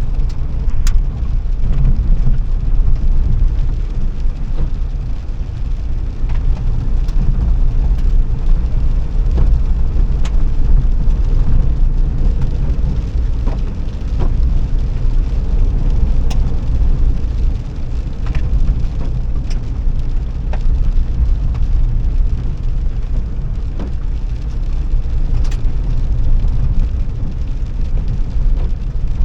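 Car on the move: a steady low road-and-engine rumble with occasional small sharp clicks.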